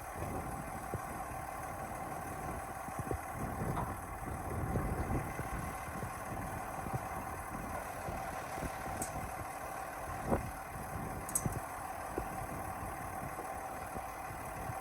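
Diesel engine of a 2015 Freightliner gravel truck idling steadily, with a couple of short clicks about two-thirds of the way through.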